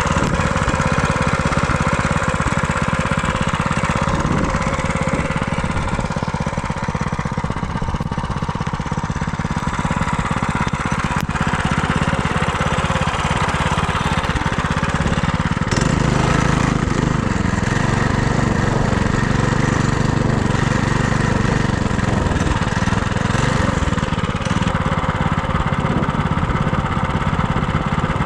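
Small single-cylinder four-stroke FRP GMB100 minibike engine running steadily under way. Its engine speed changes about sixteen seconds in, then it keeps running.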